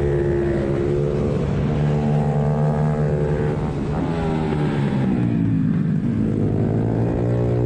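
Suzuki Hayabusa inline-four engine in a pit bike running hard on track; its pitch falls to a low point about six seconds in as the bike slows, then rises again as it accelerates.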